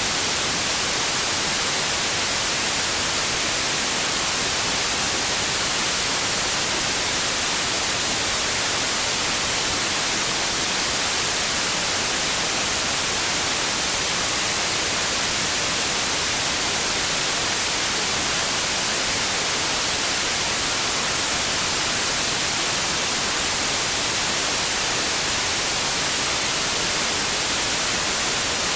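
Steady white noise: an even, unchanging hiss, brightest in the high end, with no events or changes.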